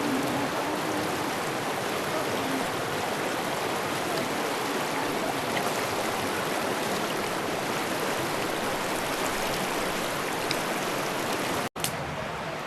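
Fast-flowing mountain river rushing steadily. The sound cuts out for an instant near the end, then carries on.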